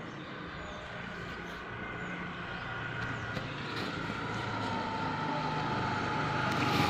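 A motor vehicle's engine hum coming closer, growing steadily louder.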